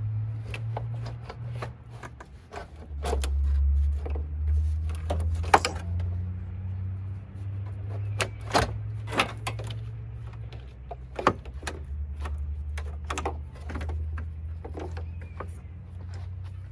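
Scattered clicks and knocks of parts and tools being handled, a few of them sharper and louder, over a steady low hum.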